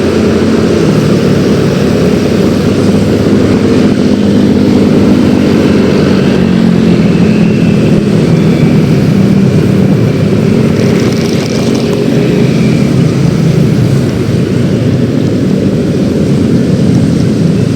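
Yamaha X-Ride 113cc scooter's single-cylinder engine running under way, its pitch rising and falling gently with the throttle, under loud wind rush on the microphone.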